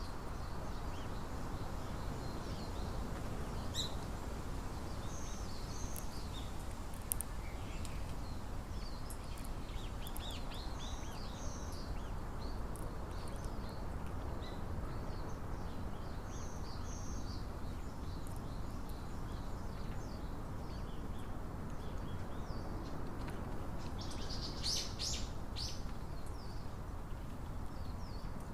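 Small birds chirping with short, high calls scattered through, with a louder run of chirps near the end, over a steady low outdoor background noise.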